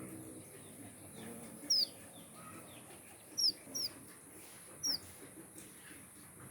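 Small finches in an aviary calling: four short, sharp chirps, each sweeping down in pitch, spaced a second or more apart.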